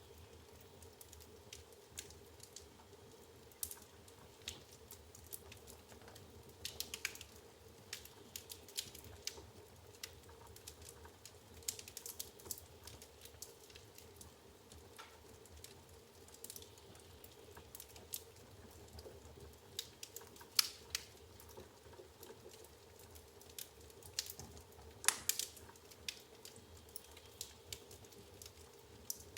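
Firewood burning in an open fireplace, crackling with irregular sharp pops and snaps, the loudest about 25 seconds in. A faint steady hum lies underneath.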